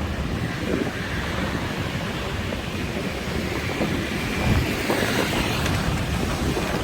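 Steady city street traffic noise, with wind buffeting the microphone.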